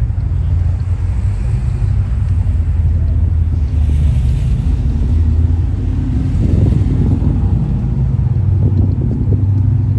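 A car engine idling with a deep, steady rumble.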